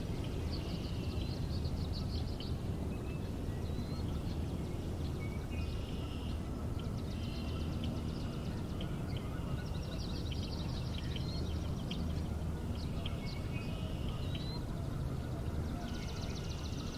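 Several songbirds singing, repeated rapid trills and buzzy phrases with short rising whistled notes, over a steady low rumble.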